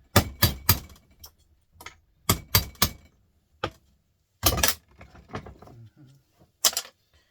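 Sharp metal-on-metal knocks from a small hammer striking a scrap part, coming in quick clusters of three or four blows with single taps between.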